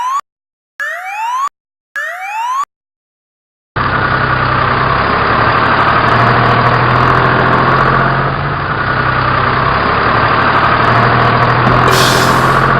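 Three short rising whoops, each under a second, then after a second of silence a truck engine starts and runs steadily. A burst of hiss comes near the end.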